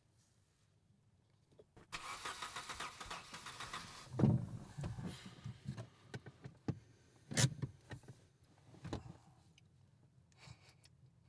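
Kia Ceed diesel engine sputtering and dying as the car runs out of fuel. A dense rattle about two seconds in gives way to a run of irregular low coughs and thumps over the next five seconds, then it goes quiet.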